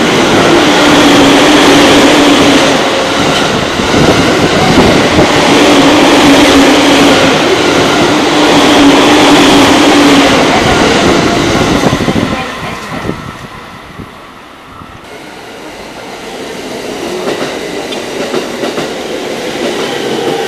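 An E231-series electric commuter train runs through the station at speed without stopping, its wheels clattering over the rail joints and its motors humming steadily. After about twelve seconds the noise falls away as the train clears. Another train then approaches, and its noise builds again toward the end.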